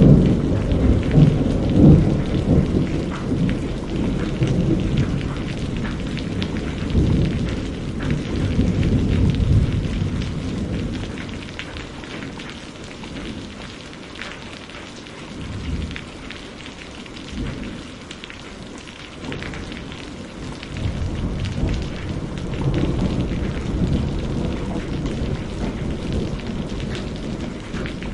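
Steady rain with rolling thunder: a loud low rumble of thunder at the start that fades over about ten seconds, a quieter spell of rain, then another long roll of thunder building after about 20 s.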